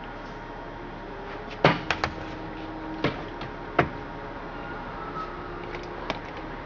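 A few sharp clicks and knocks, about five in two seconds, from handling parts of a chainsaw, heard over a steady background hum.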